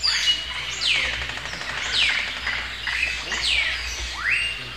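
Bird calls: a string of high whistles, each sliding down in pitch, about one a second, with a rising whistle near the end.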